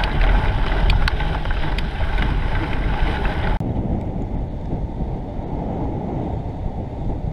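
Wind buffeting the microphone of a camera riding along on a moving bicycle: a steady low rumble, with light clicks and rattles in the first few seconds.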